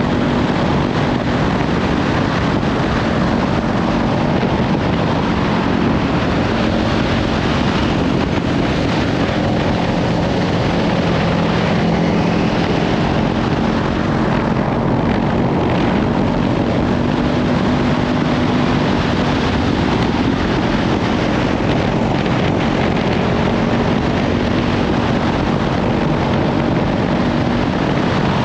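Kawasaki Ninja 500's parallel-twin engine running at a steady cruise through a Leovince slip-on exhaust, its pitch drifting slightly up and down. Heavy wind noise on the microphone runs over it throughout.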